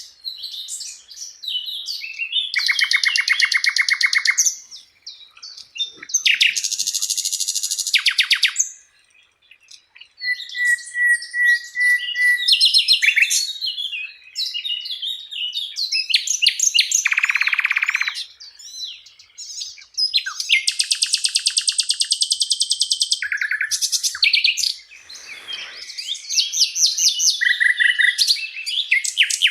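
Sikatan londo flycatcher singing a long, varied song: fast trills of rapidly repeated notes, buzzy phrases and short whistled chirps, in bursts of a few seconds with brief pauses between them.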